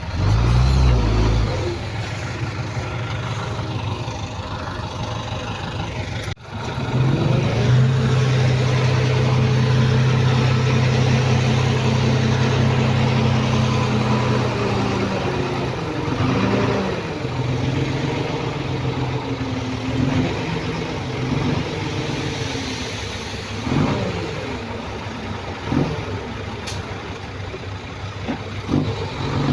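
Heavy earthmoving machine's diesel engine running under load, its note steady for several seconds and then rising and falling as it revs. A brief break about six seconds in.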